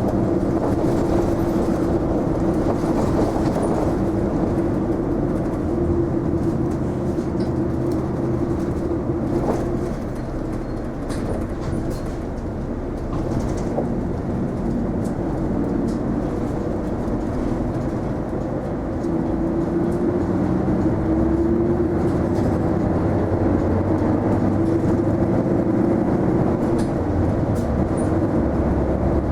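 Cabin ride noise of an Isuzu Erga non-step city bus under way: the engine and drivetrain run with a steady whine over low road rumble. The noise eases off about ten seconds in and picks up again about nine seconds later.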